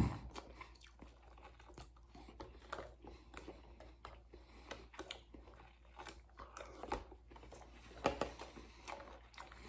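A man chewing a mouthful of takeout omelette breakfast close to the microphone: soft, irregular mouth and chewing sounds with light clicks of a plastic fork in a plastic food container, a little louder about eight seconds in.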